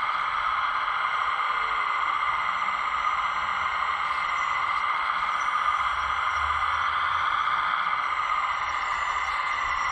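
Steady whirring of a scale RC hydraulic excavator's pump and motor running.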